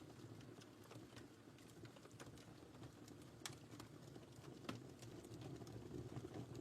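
Wood fire burning in a fireplace, quiet: a steady low rumble of flames with scattered sharp crackles and pops, two louder pops about halfway through and near five seconds in.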